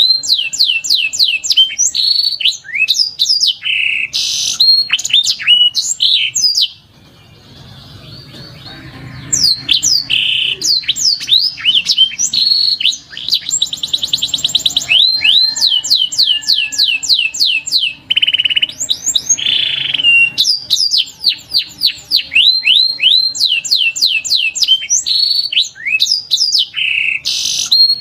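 Domestic canary song: loud runs of quick, repeated falling whistled notes, with rapid trills, and a pause of a few seconds about a quarter of the way in.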